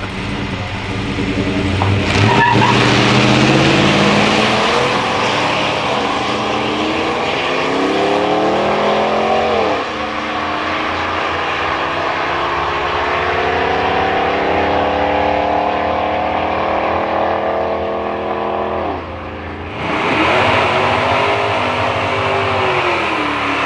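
Engine of a vehicle making a drag strip pass at full throttle: its pitch climbs steadily, drops sharply at a gear change about ten seconds in, then climbs again. About twenty seconds in, a louder engine sound starts abruptly and falls in pitch near the end.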